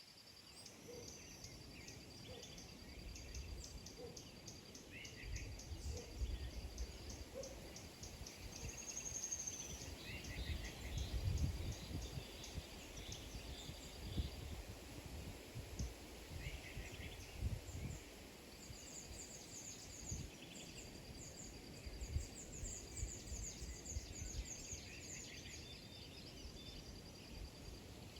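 Small birds chirping and trilling in short high calls, over a rapid, high, steady ticking trill and an uneven low rumble.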